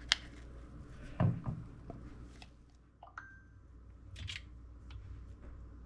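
Scattered light knocks and clicks of a mixing bowl and utensils being handled around a stand mixer that is switched off, the sharpest right at the start and about a second in, over a low steady hum.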